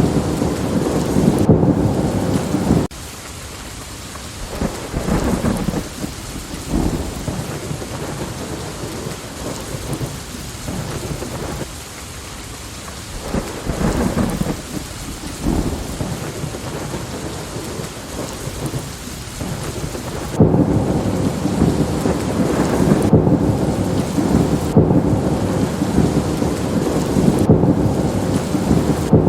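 Thunderstorm: steady rain with crackling thunder. It is loud at first, drops suddenly a little under three seconds in to lighter rain with scattered thunder crackles, and turns loud and dense again just as suddenly about twenty seconds in.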